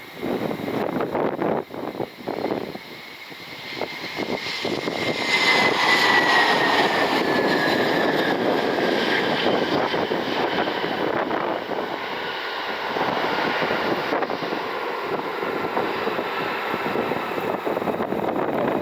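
Jet engines of an arriving Frontier Airbus A320-family airliner going by, a steady roar with a whine that slowly falls in pitch. It is loudest about six seconds in. Wind buffets the microphone in the first few seconds.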